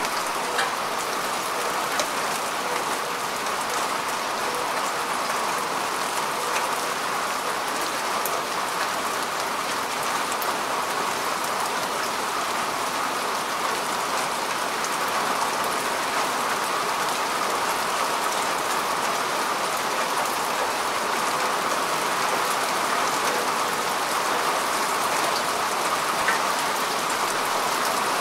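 Steady rain falling on earth and grass, an even hiss with scattered individual drop hits.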